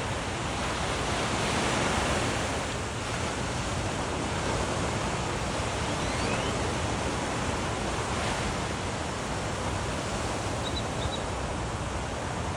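Ocean surf washing onto a sandy beach in a steady rush, swelling as a wave breaks about two seconds in. A few faint, short bird chirps come through near the middle and near the end.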